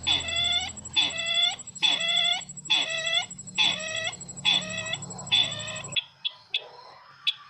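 Sisintar bird call played as a trapping lure: the same pitched call, dipping then rising, repeated about once a second, eight times, over a steady faint high tone and low hum. It cuts off abruptly about six seconds in and is followed by a few sharp clicks.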